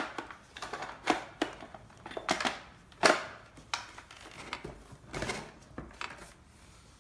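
Irregular clicks and knocks of hands working at plastic wiring connectors and housing, strongest about a second, three seconds and five seconds in.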